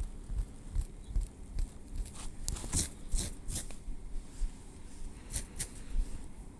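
Metal tweezers working through hair and over the scalp, close to the microphone: soft scratching with small sharp clicks and picks. The clicks come in a quick run of about four just before the middle, then two more near the end.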